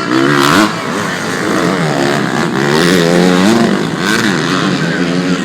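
Several motocross bikes racing, their engines revving up and down as they accelerate and shift gears, with the pitches overlapping and repeatedly rising and falling.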